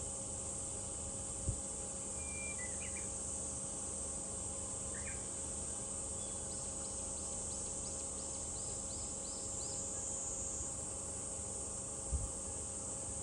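Cicadas buzzing in a steady high drone, with a bird calling over it: a couple of short calls early on, then a quick run of about a dozen chirps in the middle. Two brief low thumps, one near the start and one near the end.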